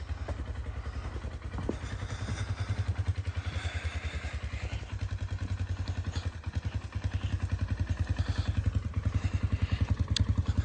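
Polaris Ranger 570 EFI's single-cylinder engine idling with an even, rapid low pulse that grows gradually louder.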